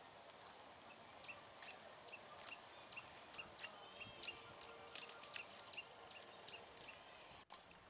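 Near-quiet rural outdoor ambience with a faint bird chirping in a quick series of short, high notes, about three a second. The sound cuts out for an instant near the end.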